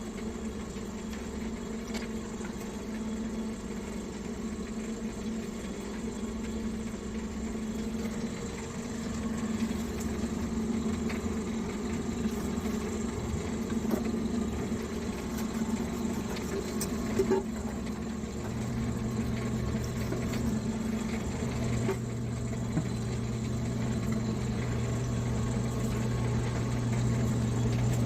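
A small electric motor running with a steady hum. A second, lower hum joins about two-thirds of the way in and the sound grows slowly louder.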